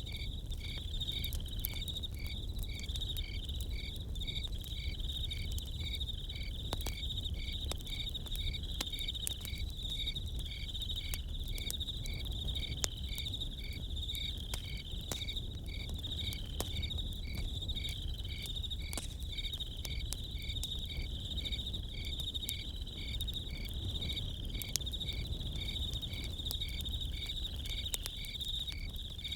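Crickets chirping steadily in a regular pulsing rhythm over a campfire, whose crackle comes through as scattered sharp pops above a low steady rumble.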